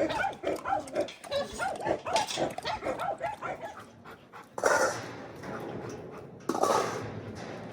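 Dog whining and yelping in a quick run of short high calls, about four a second, for the first few seconds; then two loud rushing noises about four and a half and six and a half seconds in.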